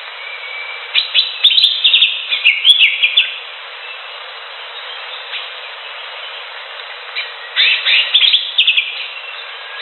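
Greater green leafbird (cucak hijau) singing: two bursts of rapid, varied chirping notes, about a second in and again about seven seconds in, over a steady background hiss.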